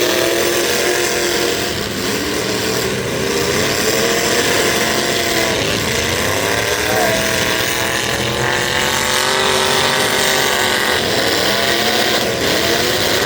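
Engines of several demolition derby trucks revving hard, their pitch rising and falling over and over as the trucks drive and ram one another.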